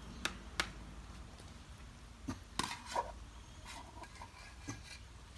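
Puppies eating from a bowl: scattered short clicks and knocks of food and bowl, a few of them close together in the middle.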